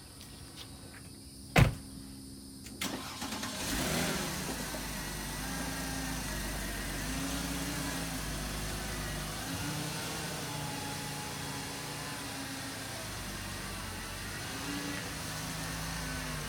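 A car door slams shut about a second and a half in. A couple of seconds later the car's engine starts and settles into a steady idle.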